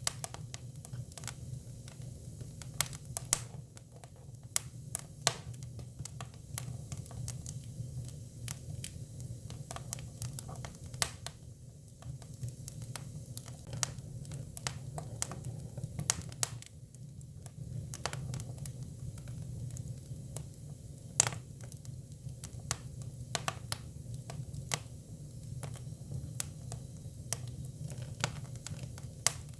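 Hinoki cypress firewood burning, crackling with irregular sharp pops, a few of them louder, over a steady low hum.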